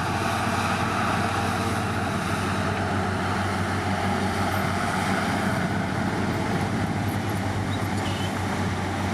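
Heavy diesel engine of earthmoving equipment running steadily at a constant, low-pitched drone.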